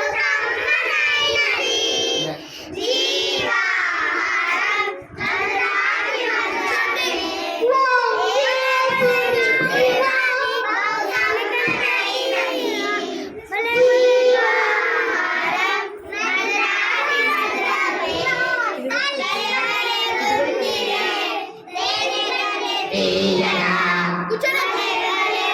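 Children singing a song together, phrase after phrase with short breaks between lines.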